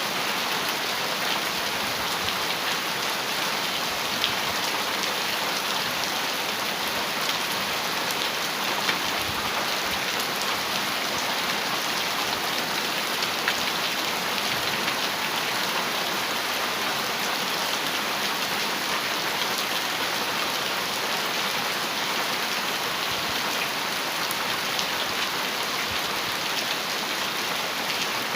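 Heavy rain falling steadily on a metal roof: a dense, even patter of drops, with an occasional slightly louder single drop hit.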